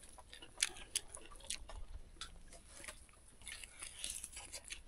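Close-up biting and chewing on cooked chicken wing and foot bones: faint, irregular crunches and clicks.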